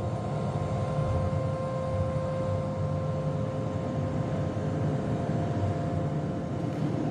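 A steady low rumbling drone with a thin held hum tone above it.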